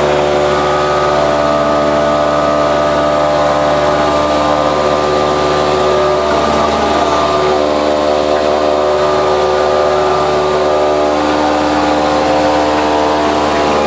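Light aircraft's piston engine and propeller droning steadily in flight, heard from inside the cabin.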